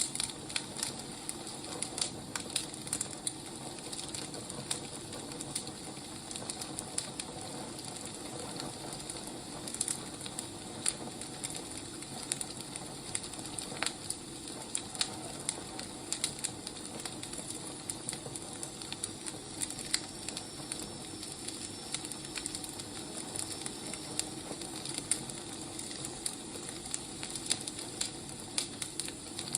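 Wood fire crackling: irregular pops and snaps over a steady hiss.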